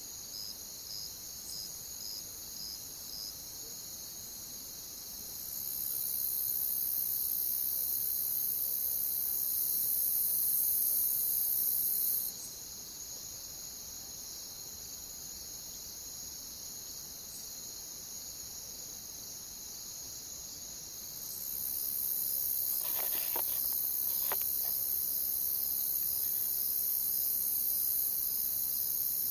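Crickets chirping steadily in a high, even trill, pulsing at first. A second, higher-pitched insect chorus swells up loud twice and then drops back.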